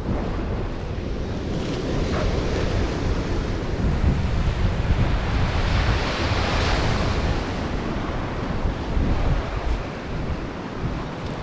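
Ocean surf washing onto a beach, with wind buffeting the microphone in a low, uneven rumble. A wave swells and breaks about halfway through, its hiss rising and then fading.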